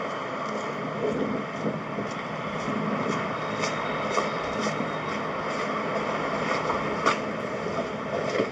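Excavator's diesel engine running steadily, with a few short clicks or knocks on top, the sharpest about seven seconds in.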